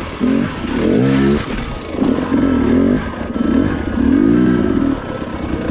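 Two-stroke KTM enduro dirt bike engine revving in short repeated bursts, its pitch rising and falling with each blip of the throttle.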